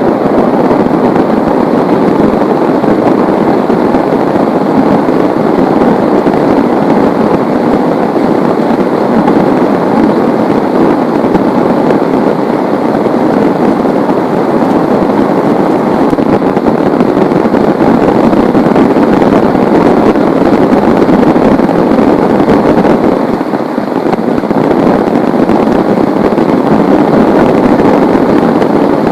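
Heavy rain falling in a loud, steady, dense hiss, easing slightly for a moment about three quarters of the way through.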